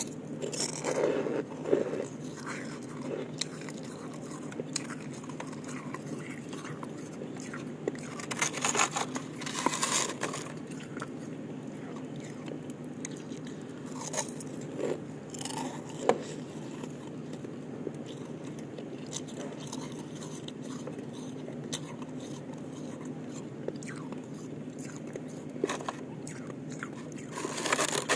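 Ice being bitten and crunched between the teeth, in separate bouts of loud crunching a few seconds apart with quieter chewing between. A steady low hum runs underneath.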